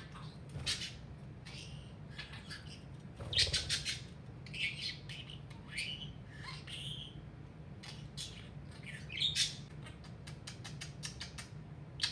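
Budgerigar chattering and warbling: a run of short chirps, squawks and clicks, loudest about three and a half seconds in and again near nine seconds, over a steady low hum.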